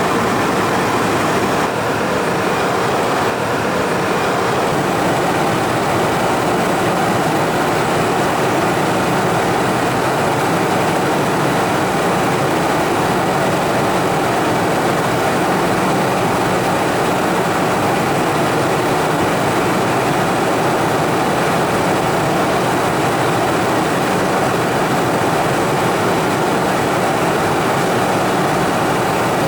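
Embraer Phenom 300 business jet in flight: a steady, unbroken rush of engine and airflow noise with a faint steady hum, unchanging throughout.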